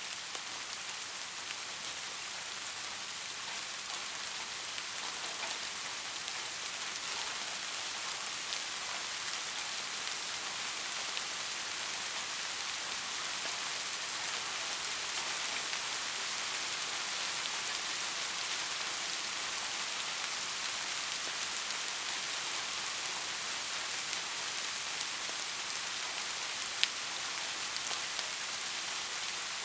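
Steady soft rain: an even hiss of many drops with scattered small drip ticks, and one sharper drip near the end.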